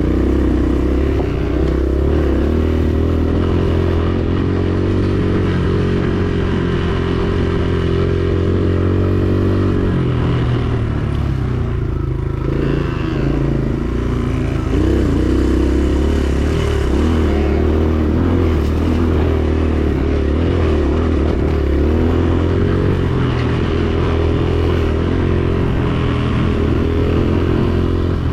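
Dirt bike engine running under riding load, its pitch rising and falling with the throttle. It eases off briefly about halfway through, then picks up again.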